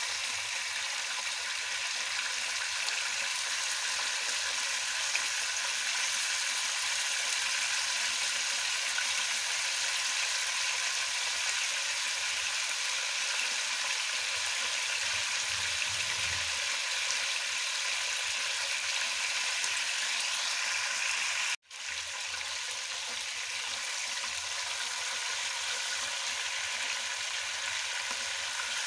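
Chicken pieces frying in hot ghee in a nonstick pot on a high flame: a steady sizzle, broken by a momentary dropout about 22 seconds in. Near the end a spatula starts turning the pieces.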